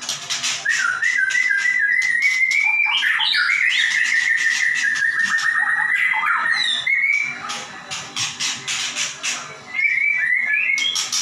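White-rumped shama (murai batu) in full song. It starts with loud whistled phrases of held and stepping notes, and after about seven seconds breaks into a rapid run of sharp clicking notes, the fast-firing 'nembak' style. A short pause comes near the end, then more whistles.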